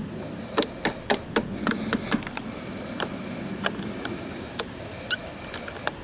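Sharp, irregular metal clicks from a socket wrench and hand tools as a battery cable clamp is fitted onto the terminal, with a brief high squeak about five seconds in.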